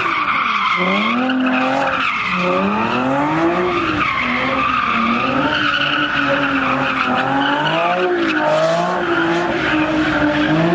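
A car doing donuts: tires squealing continuously while the engine revs up and falls back over and over, about once a second.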